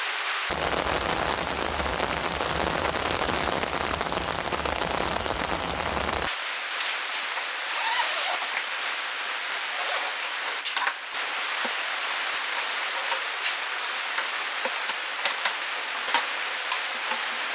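Heavy rain falling steadily, fuller and deeper for the first six seconds, then a lighter even hiss with scattered close drops ticking.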